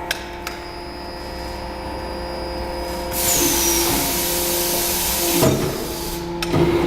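Automatic four-station rotor aluminium die-casting machine running with a steady hum and a few clicks. About three seconds in, a loud hiss lasts roughly two seconds and cuts off suddenly. Two clunks follow near the end.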